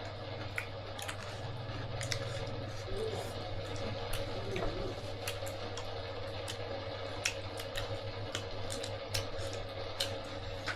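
Scattered small clicks and taps of eating utensils against plates, irregular and a second or so apart, over a steady low hum.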